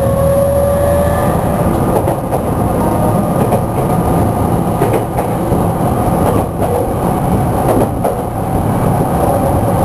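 Cabin running sound of a Tokyu 5000 series electric train's motor car: a slowly rising motor whine that drops out about a second in, then a steady rumble of wheels on rail with a few faint clicks.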